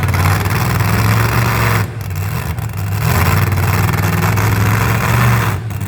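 Engine of a pulling truck or tractor running loud and hard, with brief dips in the sound about two seconds in and again near the end.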